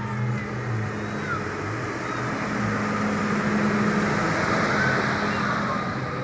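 Tractor engines running as they pass in a parade: a steady low engine hum under a wash of noise that builds toward the middle and eases near the end.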